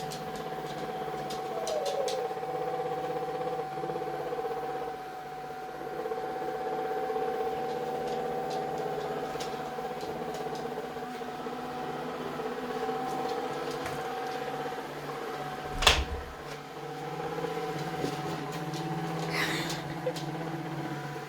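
Vacuum cleaner running with a steady motor hum, with a single sharp knock about sixteen seconds in.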